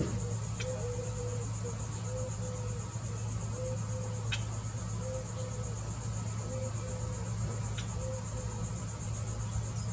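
Steady high-pitched summer insect chorus, a continuous fine pulsing trill. Under it run a low steady hum and a short low note repeating about once a second, with a few faint clicks.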